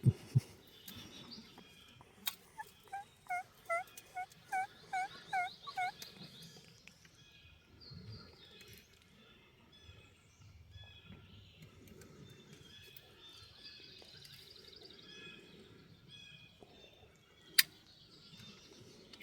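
A series of about nine evenly spaced turkey yelps, with faint songbird trills in the background. Sharp clicks sound at the very start and near the end.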